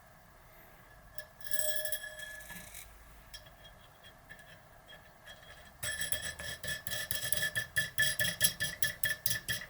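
Metal ratchet mechanism clicking steadily, about four sharp ringing ticks a second, starting about six seconds in. Before that, a few faint clinks of small metal parts.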